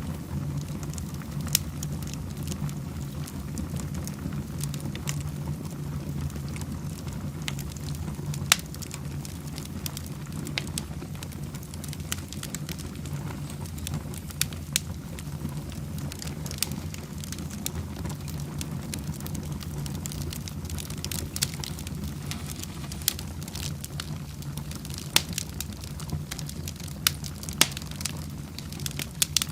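Wood fire burning in a fireplace: a steady low rumble of flames with irregular sharp crackles and pops, a dozen or so louder snaps scattered through.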